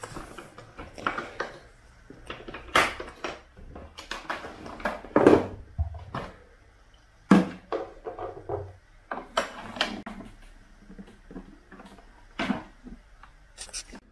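Irregular knocks, clicks and clatter of objects being handled, about a dozen, uneven in loudness, the loudest about five and seven seconds in.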